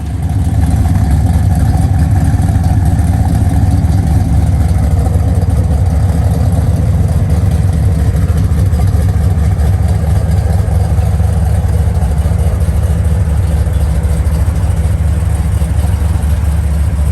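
2012 BMW M3's 4.0-litre V8 idling steadily through a Kinney's Street Demon performance exhaust, a steady low exhaust note with no revving.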